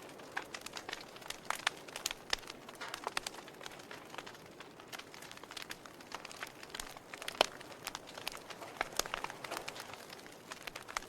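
Wood fire in a fireplace crackling: irregular sharp pops and snaps over a soft steady hiss, with one louder pop about seven and a half seconds in.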